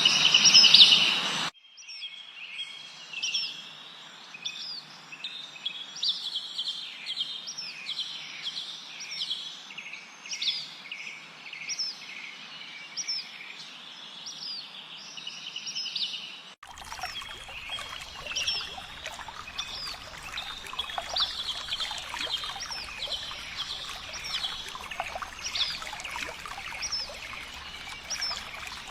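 Forest birdsong: one bird repeats a short, hooked chirp about once a second over softer twittering from other birds. The sound changes abruptly near the start and again about two-thirds through, as one recording gives way to another. The later part carries a steady rushing hiss under the chirps.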